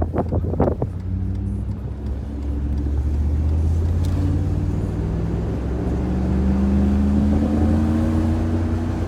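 Mercedes-Benz R129 500SL's 5.0-litre V8 running through an exhaust with the muffler removed but the resonator and catalytic converters kept, a deep steady rumble. Its pitch rises slowly over the last few seconds as the car accelerates gently.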